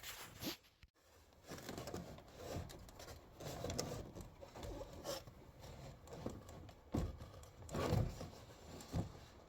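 Irregular knocks, scrapes and rustling of car trunk trim, insulation and a speaker enclosure being handled and worked loose, with the sharpest knocks about seven and eight seconds in.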